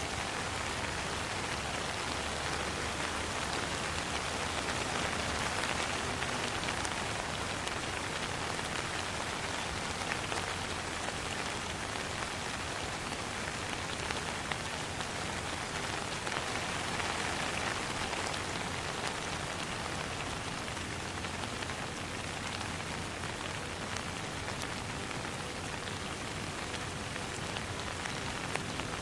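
Steady rain falling on a pond and surrounding surfaces, a dense even patter with fine individual drop ticks.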